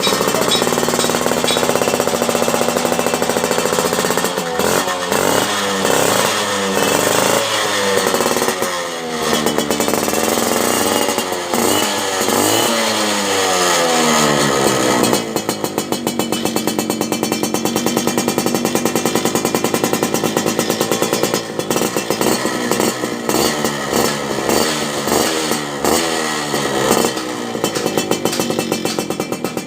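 Yamaha Alfa two-stroke motorcycle engine running through an aftermarket racing exhaust, revved over and over with the pitch rising and falling. It holds a steadier high rev in the middle, then goes back to short throttle blips.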